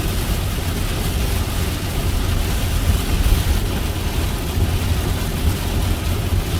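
Heavy rain hitting a vehicle, a steady hiss over a continuous low rumble.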